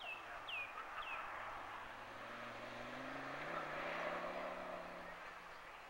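Ford Focus ST's engine pulling hard on track, its note rising in pitch and growing louder from about two seconds in to a peak around four seconds, then fading as the car draws away. A few short bird chirps sound in the first second.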